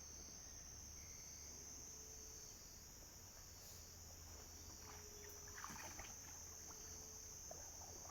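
Near silence with a steady, high-pitched drone of night insects such as crickets, over a faint low hum.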